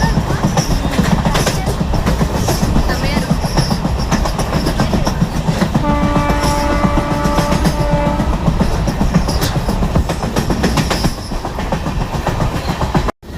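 Train in motion: a loud, dense rumble with rattling from the carriage, and a train horn blowing one steady note for about two seconds midway.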